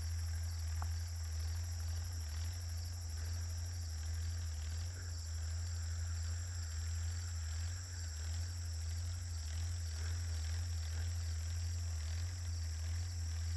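Steady chorus of crickets and other insects, over a continuous low hum.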